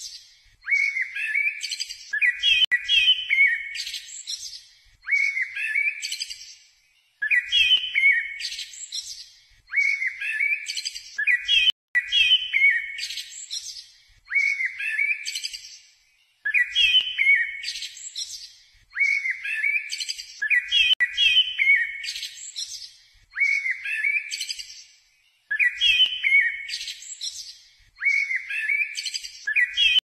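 A bird chirping in short phrases of several quick high notes, each phrase repeating about every two seconds in much the same pattern.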